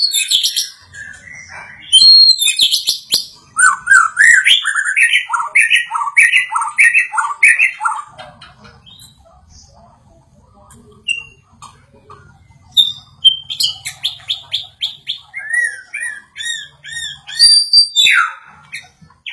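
White-rumped shama song: loud, varied whistled phrases, including a run of about nine repeated rising-and-falling notes. It breaks off for a few seconds in the middle, then resumes with quick phrases.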